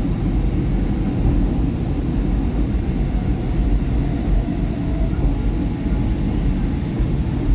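Steady low rumble of a SEPTA Market-Frankford Line subway train running between stations, heard from inside the car: wheels on the rails and the car's running gear.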